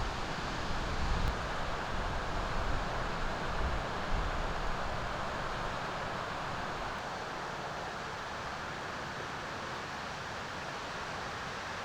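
Steady seaside wind and surf noise. Wind gusts on the microphone over the first few seconds, then ease to a steady wash.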